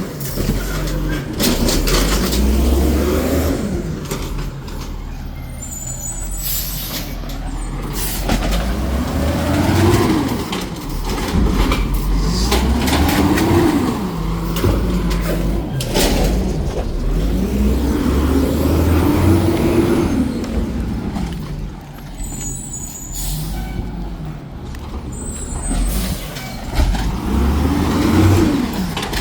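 Garbage truck engine revving up and down again and again, about five times, as it drives the hydraulic packer compacting a load of trash, with a few short bursts of air hiss in between.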